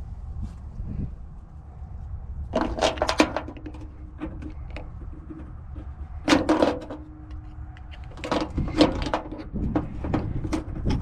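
Metal hand tools knocking and scraping on the engine's thermostat housing while the old thermostat gasket is worked off: short clusters of sharp clicks and knocks, three bursts in all, the last one the longest.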